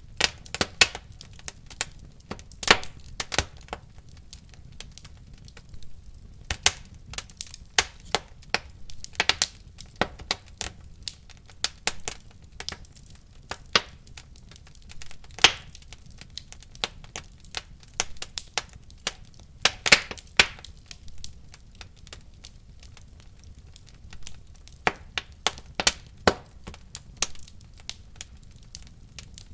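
Wood fire crackling in a fireplace: irregular sharp pops and snaps, several a second in clusters, over a low steady hiss of burning.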